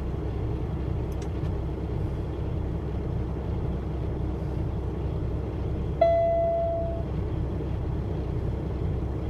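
Peterbilt 579's PACCAR diesel engine idling steadily, heard from inside the cab. About six seconds in, a single chime rings out and fades over about a second.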